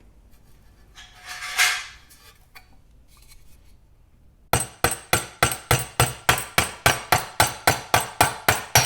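Hammer blows on 20-gauge sheet steel held in a vise, forming over a flange bend: a steady run of sharp, ringing strikes, about three or four a second, starting about halfway in. Before it, about a second and a half in, a brief rasping swell.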